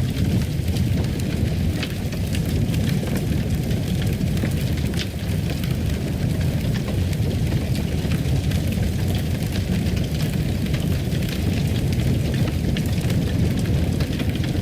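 Wood fire crackling in a fireplace: frequent sharp crackles scattered over a steady low rumble.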